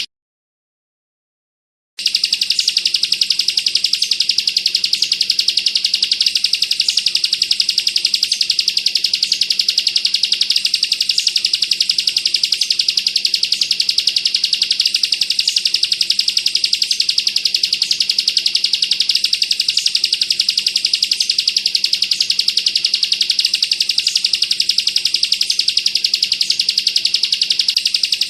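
Ciblek kristal (bar-winged prinia) singing its rapid, rattling 'bren' song, a fast run of high notes like machine-gun fire, kept up without a break. The song starts after about two seconds of silence.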